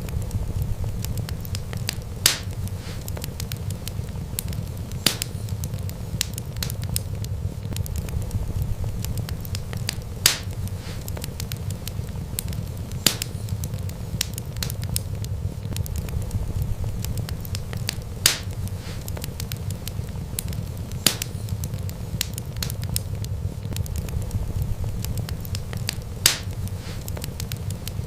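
Wood fire burning, with a steady low rumble of flames and constant small crackles. Sharp, louder pops come every few seconds.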